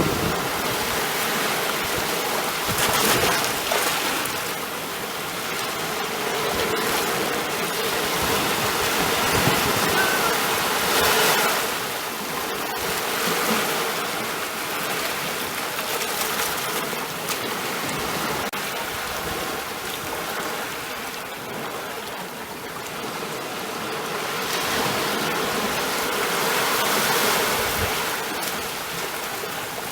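Ocean waves washing on a shore, a continuous surf noise that swells and eases every few seconds.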